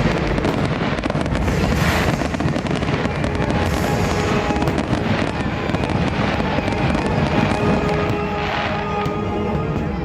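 Fireworks bursting and crackling continuously, with the show's music playing under them.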